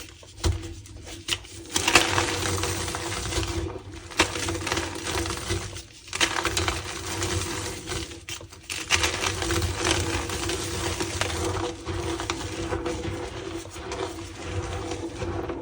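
Reformed gym chalk blocks being crushed and crumbled by hand: dry crunching and crackling in runs, broken by short pauses.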